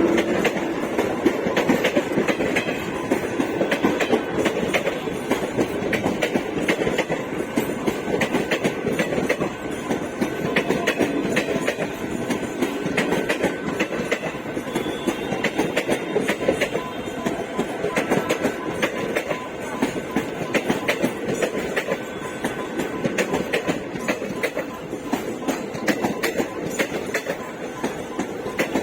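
Wheels of an express train's ICF passenger coaches clattering over the rail joints at speed: a continuous clickety-clack of sharp knocks over a steady rumble of running gear.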